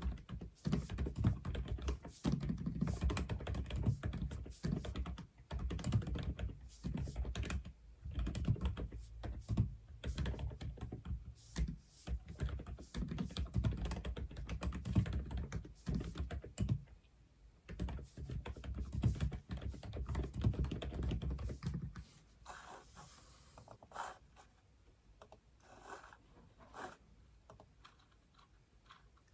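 Steady, fast typing on an Aula F87 mechanical keyboard, dense irregular keystroke clacks. About three quarters of the way through the typing stops, leaving only a few faint scattered clicks.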